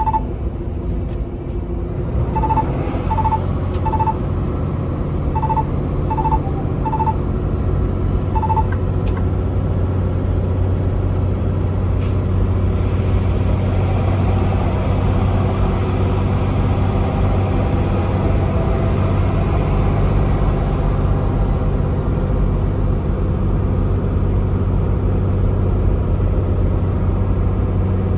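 Heavy truck's diesel engine running steadily with a low drone. About eight short, high electronic beeps sound in the first nine seconds.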